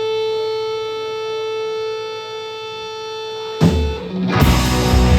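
Live rock band starting a song: a held guitar note rings steadily, then a sudden hit about three and a half seconds in, and just under a second later the full band comes in loud with drums and electric guitar.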